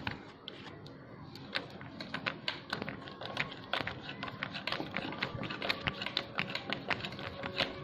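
Irregular light clicks and taps of hand work on small metal fittings, such as nuts being fitted and tightened, several a second and getting busier after about two seconds.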